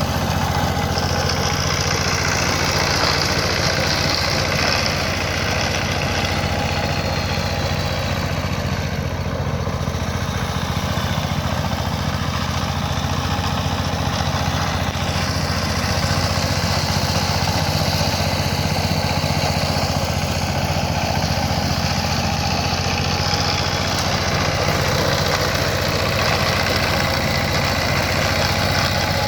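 Power tiller's water-cooled engine running steadily after being repaired and restarted, a continuous even drone with no change in speed.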